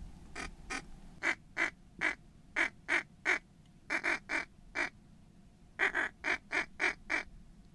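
Duck quacking: short, sharp quacks in quick runs of three to six, with brief pauses between the runs.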